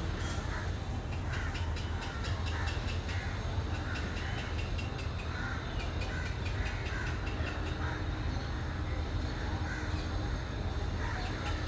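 Birds in an aviary giving repeated harsh calls, over a steady low rumble.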